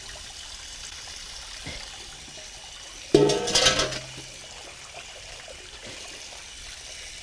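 Steady bubbling hiss of short-rib broth boiling in a cast-iron cauldron over a wood fire. A louder, briefer sound with a ringing pitch breaks in about three seconds in and lasts about a second.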